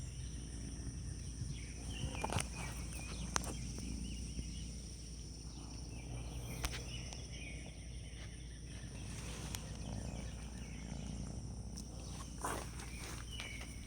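Steady high-pitched background drone in two bands over a low hum, with a handful of sharp clicks scattered through it.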